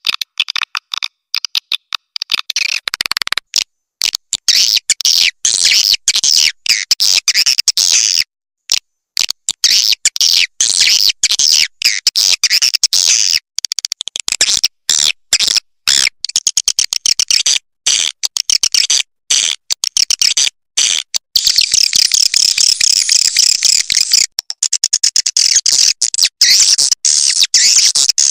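Swiftlet lure-call track: dense, rapid, high-pitched twittering and chattering of swiftlets, the kind played to draw swiftlets into a nesting house. It is cut by many brief dead-silent gaps, as in an edited loop.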